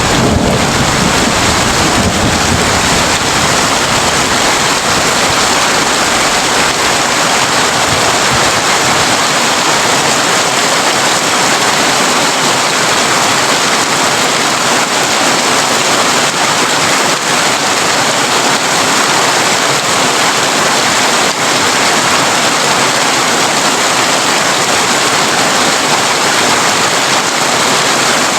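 Heavy rain on a tin roof, a loud, even, steady hiss. A low rumble of thunder dies away over the first few seconds.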